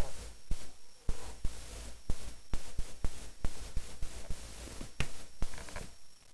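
Cats scuffling: irregular thumps and knocks over a rustling noise, with a short faint pitched sound near the end.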